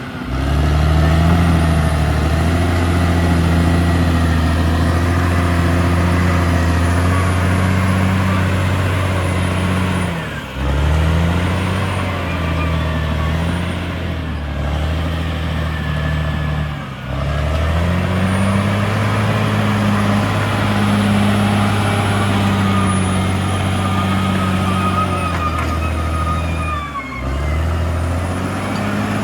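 Caterpillar D6R XL bulldozer's diesel engine running at high revs, the pitch sagging and climbing back three times, with a faint high whistle above it.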